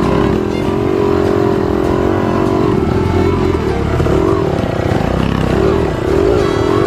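Trail motorcycle engine running under throttle, its revs rising and falling over and over as the rider works the throttle.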